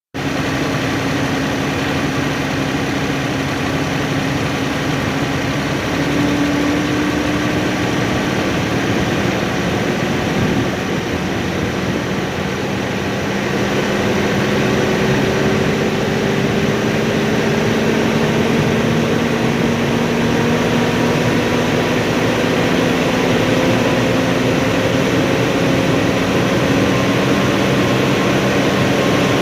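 Tractor engine running loud and steady, its throttle being raised: the engine pitch steps up about six seconds in, dips briefly, then climbs slowly and steadily through the second half as the revs rise.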